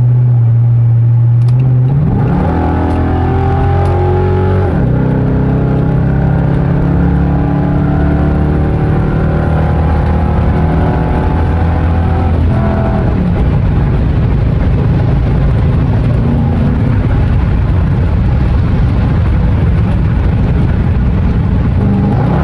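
Dodge Charger R/T's 5.7 HEMI V8 exhaust, with the mid mufflers and resonator removed but the cats kept, droning steadily at first. It then revs up in rising pitch for a few seconds under acceleration, drops at a shift, and settles into a steady cruising drone with another change in pitch about halfway through.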